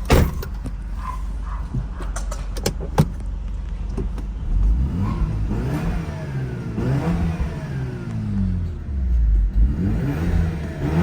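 Mazda RX-7 FD's twin-turbo twin-rotor rotary engine running and revving, its pitch rising and falling several times, with a few sharp clicks in the first three seconds. It is running warm after a hot start, and the owner calls it very healthy.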